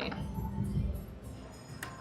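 Slot machine bonus music playing from a neighbouring Power Link machine, with a click near the end.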